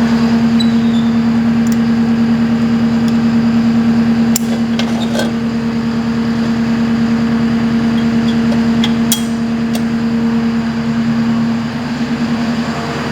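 JCB skid steer's diesel engine running steadily with a constant hum, while a few sharp clicks and knocks sound over it.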